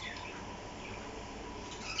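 Parrot chirping: a short falling call at the start, a few faint high chirps, then louder chirps starting near the end.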